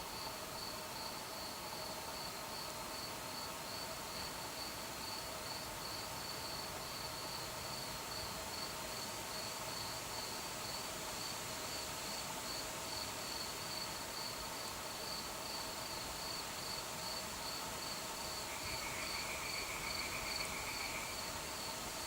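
Crickets chirping steadily in an even, rapid rhythm, with a second, lower-pitched insect trill joining briefly near the end.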